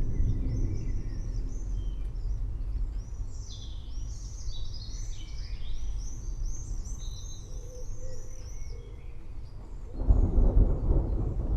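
Many birds chirping and singing in a forest, with a low roll of thunder fading away at the start and another rumble of thunder building about ten seconds in.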